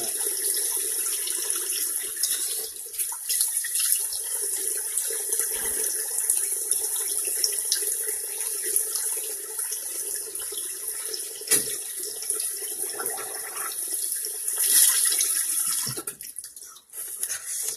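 Steady rush of running water that stops about 16 s in, followed by a few scattered knocks.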